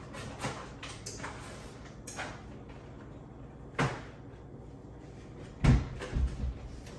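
A few sudden knocks and low thumps, like a cupboard door or objects being handled and set down, with the heaviest thump a little before the end.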